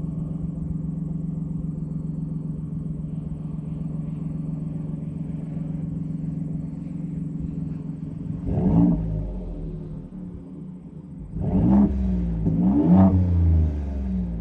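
2022 Ford F150's 3.5 L EcoBoost twin-turbo V6 idling steadily through a Black Widow Race Venom muffler (3-inch single in, dual 2.5-inch out). It is then blipped three times: once about eight seconds in, and twice close together near the end.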